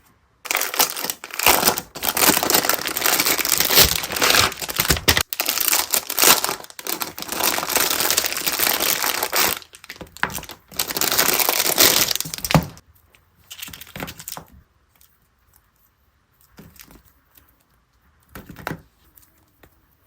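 Packaging being crinkled and crumpled as a parcel is unboxed: a long stretch of loud, dense rustling that stops about two-thirds of the way through, followed by a few short, faint rustles.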